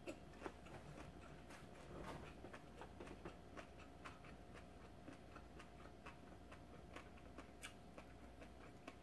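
Faint mouth sounds of chewing a mouthful of gimbap topped with flying fish roe: soft, irregular clicks, several a second, over a low steady hum.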